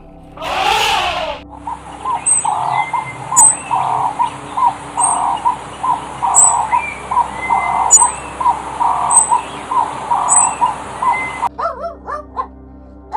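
Birds calling: a call repeated over and over, with faint high chirps above it, then a run of short quick chirps near the end. It opens with one loud drawn-out animal call.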